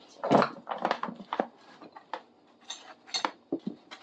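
Metal hand tools (wrenches, sockets, bolts) clinking and knocking together as they are rummaged out of a bucket. A dozen or so irregular clinks, the loudest near the start.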